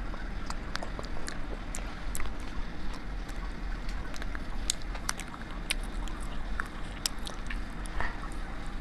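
Close-up biting and chewing of wax bottle candy: irregular sharp crackling clicks over a steady low background rumble.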